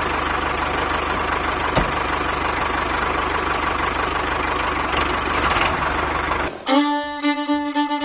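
Small motor of a DIY miniature toy tractor running with a steady whirring buzz. It cuts off about six and a half seconds in, and fiddle music takes over.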